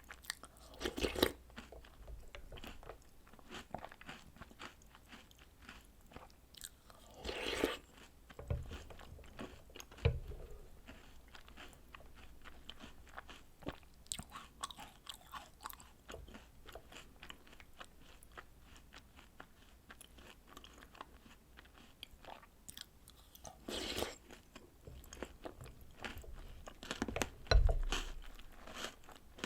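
Close-miked chewing and crunching of chocolate snacks and cereal soaked in milk, a steady run of small crackly crunches. Louder bites come about a second in, at about a quarter of the way, and near the end, along with a few low thuds.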